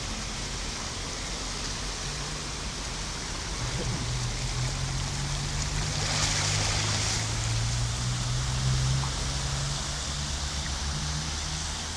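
Floodwater from a heavy downpour rushing along a street in a steady wash of noise, swelling slightly in the middle. A low steady hum sits underneath for most of it.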